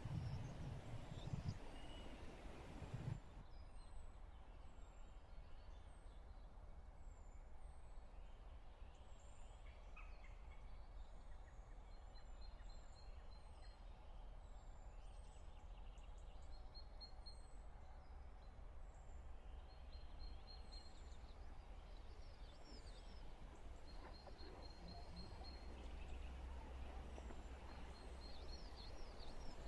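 Wild birds singing in open country: many short high chirps and repeated rapid trills, over a steady low rumble. There are a few louder low thumps in the first few seconds.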